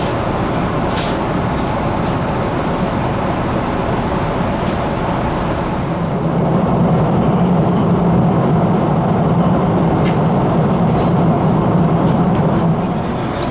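Steady cabin noise of a Boeing 777-200ER airliner in flight: a constant rushing roar of engines and airflow, swelling louder with a deeper hum about six seconds in and easing back near the end.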